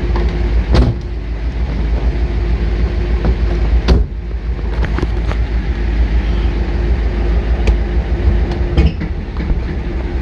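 Classic car's engine running with a deep steady rumble while the car is backed out, with a few sharp clunks about a second in, about four seconds in and near the end.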